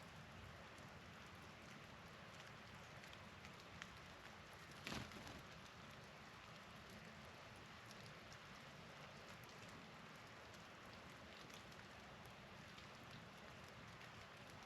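Faint steady patter of falling precipitation, wet snow and drips, on outdoor surfaces, with scattered light ticks and one louder click about five seconds in.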